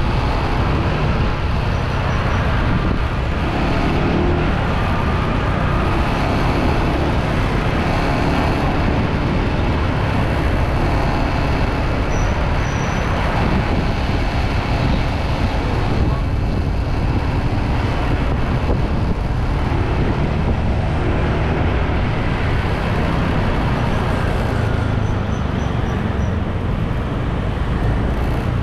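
Motorbike riding on an open road: a steady rush of engine, tyre and wind noise, with passing traffic.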